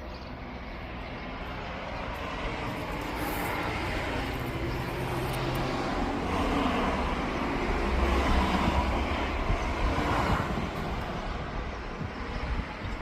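A passing vehicle's rumble that builds slowly, peaks about eight to ten seconds in, then fades.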